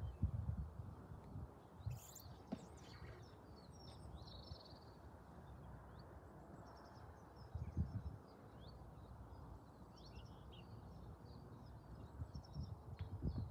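Several birds chirping and singing, over uneven low rumbles of wind buffeting the microphone. The biggest gust comes about eight seconds in.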